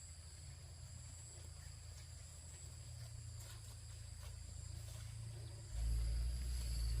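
Insects trilling steadily at several high pitches, with a low rumble underneath that suddenly grows louder near the end.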